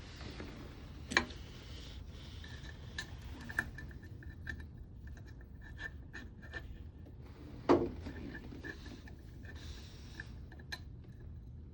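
Hand work on the water pump's gasket and cover: rubbing and scraping of parts with scattered small metal clicks, and two sharper knocks, one about a second in and one about two-thirds of the way through.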